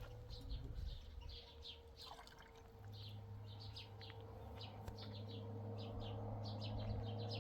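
Small birds chirping: short, high chirps several times a second. A steady low hum runs underneath and gets louder about three seconds in.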